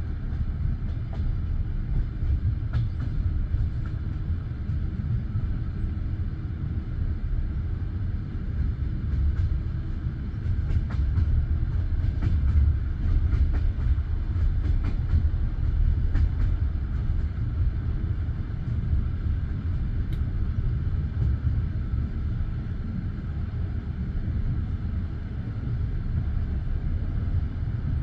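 Passenger train running between stations: a steady low rumble of wheels on the rails, with scattered light clicks of the wheels over rail joints, most of them in the first half.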